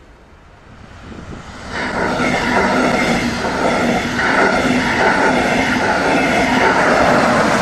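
DB double-deck regional train pushed by a class 112 electric locomotive passing close by. Its running noise rises sharply about two seconds in and stays loud, with wheel rumble and a steady electric whine.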